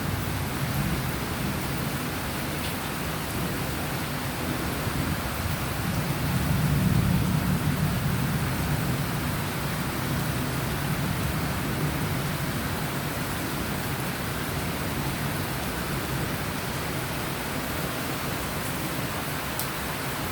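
Steady rain falling, an even hiss, with a low rumble swelling for a few seconds in the middle.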